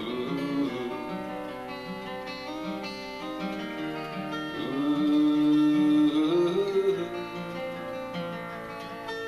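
Acoustic guitar playing the instrumental break of a slow folk song. A held, wavering melody line rises over it in the middle and is the loudest part.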